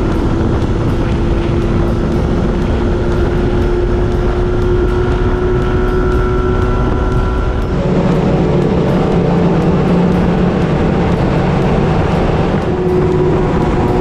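Motorcycle engine and exhaust running at a steady speed while riding, its note holding one pitch, with wind and road noise. About eight seconds in, the engine note changes to a lower, stronger tone.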